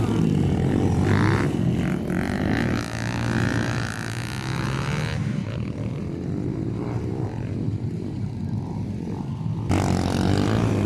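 Motocross dirt bike engines running and revving. The sound turns duller about five seconds in and comes back loud suddenly near the end.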